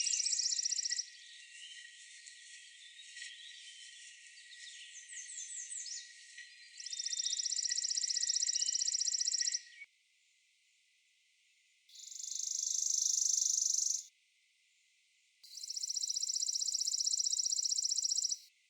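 Chipping sparrow singing: rapid, even trills of dry notes, each two to three seconds long, with faint chirps of other songbirds between them. Near the end two more trills stand alone against silence, the first swelling in loudness as it goes.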